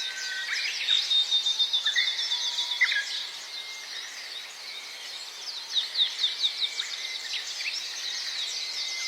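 Several birds singing at once: fast runs of high chirps about a second in and again near six seconds, over longer steady whistled notes.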